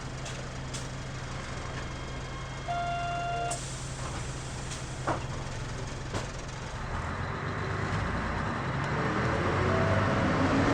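Mitsubishi Fuso KL-MP37JK city bus heard from inside: the diesel idles with a steady low hum and cabin rattles, a short electronic beep sounds about three seconds in, and a few clicks follow. From about seven seconds in, the engine and road noise rise as the bus pulls away and picks up speed.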